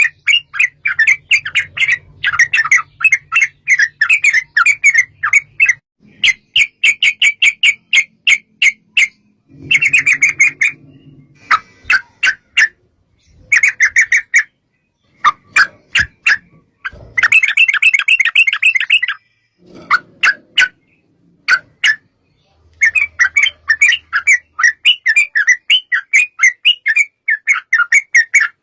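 Yellow-vented bulbul (trucukan) singing long, fast runs of repeated chattering notes, about four a second, broken by short pauses every few seconds.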